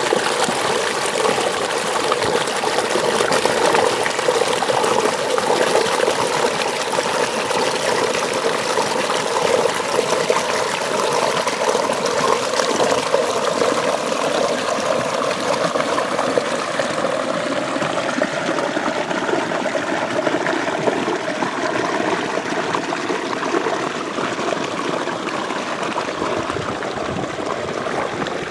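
Water flowing steadily along an open irrigation ditch (acequia). The high end of the sound thins out a little in the second half.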